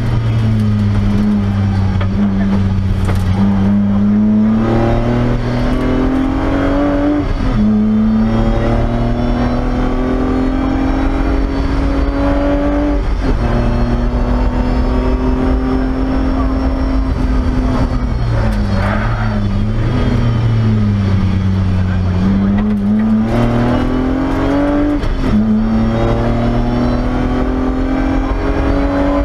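BMW E30 rally car's engine heard from inside the cabin, pulling hard through the gears: the engine note climbs steadily in each gear and drops sharply at each upshift, about every six seconds. Around two-thirds of the way through the note falls and wavers, then climbs again.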